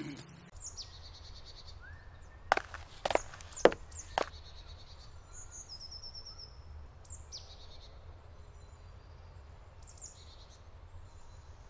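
Small birds chirping in woodland: short, high, quickly falling notes, some repeated in quick runs, scattered throughout over a faint low background hum. About two and a half to four seconds in, four sharp knocks or clicks stand out as the loudest sounds.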